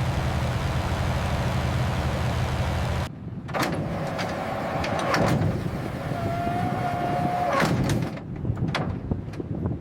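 Steady low drone of propeller aircraft engines running, which cuts off suddenly about three seconds in. After it come scattered clicks and knocks, and a short steady whistle-like tone a little past the middle.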